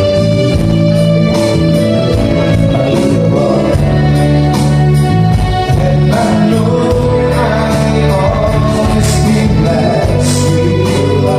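Live band music with singing over sustained chords and a steady bass.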